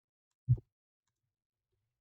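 Near silence, broken once about half a second in by a single brief low thump.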